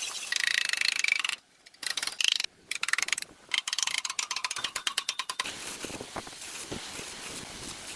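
Rapid mechanical clicking in quick runs, broken by brief sudden gaps.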